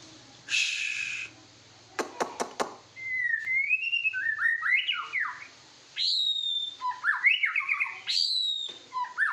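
White-rumped shama singing: a harsh rasping note and a quick run of four sharp clicks, then loud whistled phrases that slide up and down in pitch, in several bouts.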